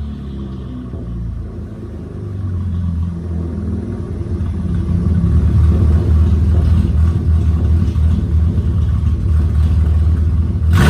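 V6 Camaro engine and exhaust running at low, steady revs, growing louder from about three seconds in and then holding.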